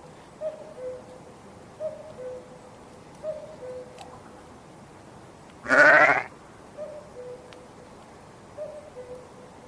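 A single loud, wavering bleat from a farm animal about six seconds in. Under it, a soft two-note hoot repeats all through, a higher note then a lower one, about every second and a half.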